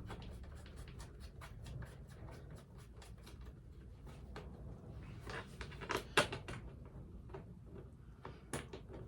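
Light clicks and taps, irregular and several a second, with a couple of louder knocks about six seconds in, over a low steady hum.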